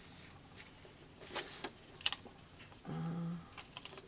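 Paper being handled and slid into place: light rustling with a few small clicks and taps, one louder swish about a second and a half in, and a short hum from a voice about three seconds in.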